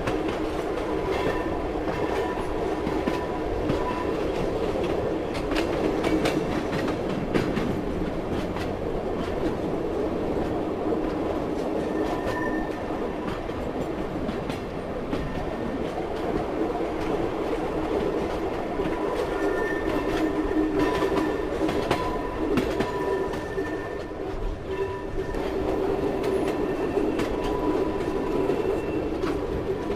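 Moving train running steadily: a continuous rumble with the wheels clicking over rail joints, and faint high-pitched tones coming and going.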